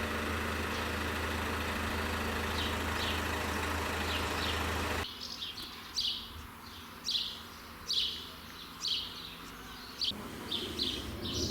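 A steady mechanical hum with a rushing noise, cutting off suddenly about five seconds in. Then a bird chirps repeatedly, short falling calls about once a second.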